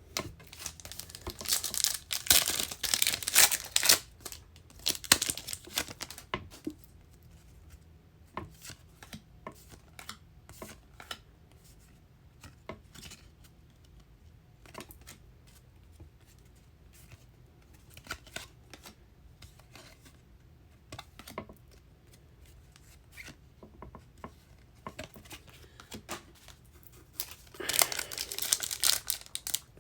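Trading card pack wrappers being torn open and crinkled, with short sharp clicks of cards being flipped through in between; another pack is torn open near the end.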